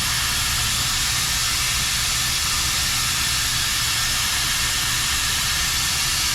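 Vacuum brake bleeder running with a steady loud hiss and a low hum underneath, drawing old brake fluid out through an opened caliper bleeder screw during a brake fluid flush.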